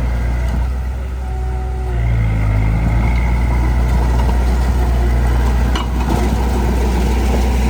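Heavy machine's diesel engine running steadily, its level dipping briefly and then rising about two seconds in, with a short click near the end.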